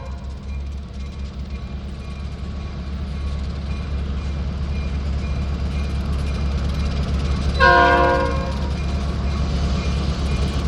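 Train rumbling steadily through a railroad grade crossing, with one short, loud blast of the locomotive's multi-tone air horn about eight seconds in. A faint, evenly repeated high ding runs under it.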